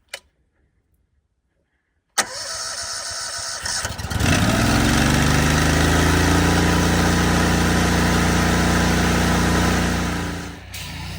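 An engine starts about four seconds in, rising in pitch as it comes up to speed, then runs steadily until near the end. Wind noise on the microphone comes in suddenly before it.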